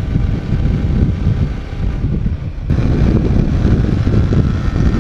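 A motorcycle being ridden, its engine under heavy wind buffeting on the microphone. About two and a half seconds in the sound changes abruptly and gains more hiss.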